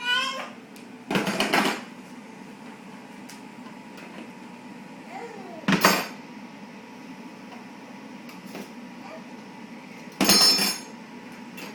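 Dishes and cutlery rattling and clattering in an open dishwasher's racks: a burst of rattling about a second in, a single sharp knock near the middle, and another rattling burst near the end. A baby makes a short vocal sound at the very start.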